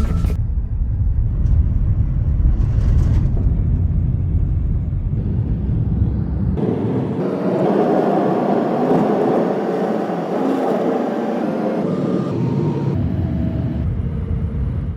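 Steady low rumble of a car driving. About six and a half seconds in, the deep rumble drops out and a higher rushing noise takes over for about six seconds, then the low rumble returns.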